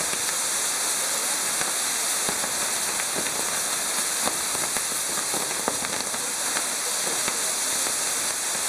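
Maltese ground-firework wheel burning: a steady, dense hiss of its fire jets, dotted with scattered small crackles and pops.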